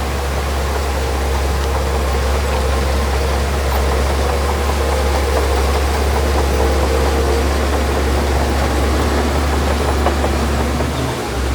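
Diesel engine of heavy earthmoving machinery running steadily with a deep rumble, dipping briefly near the end.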